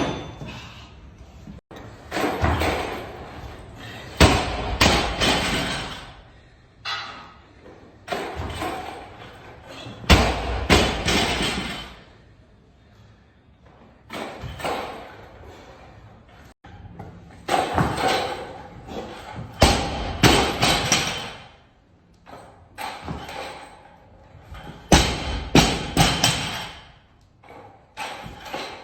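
Repeated heavy thuds and slams in clusters a few seconds apart, with quieter gaps between.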